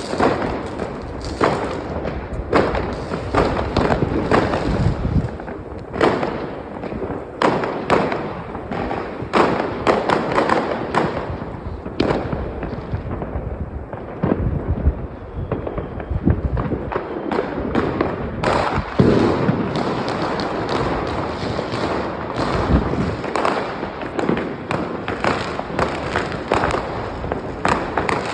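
New Year's Eve fireworks and firecrackers going off nonstop, many overlapping bangs and crackles at irregular intervals, over a continuous rumble of explosions.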